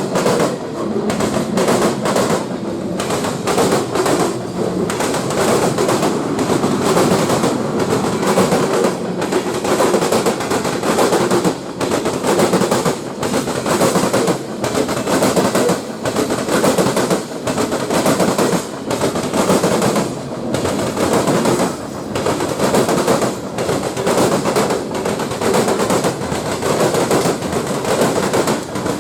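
Train cars rolling past close by, their wheels clattering rapidly and continuously over the rail joints and crossings.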